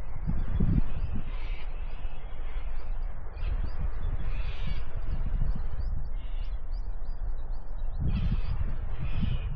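Wild birds calling in the bush: several harsh, rasping calls and many short high chirps. A low rumbling noise runs underneath on the microphone.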